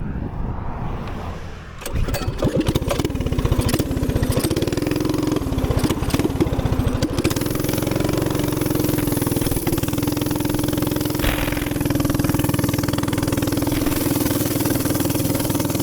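Small gas minibike engine starting about two seconds in, running unevenly with the revs rising and falling for a few seconds, then settling into a steady run.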